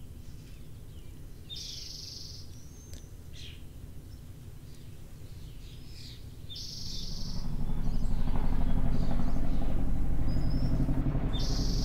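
A bird chirping a few times, each call short and high-pitched, over a quiet background. About halfway through, a louder, low, steady rumble sets in.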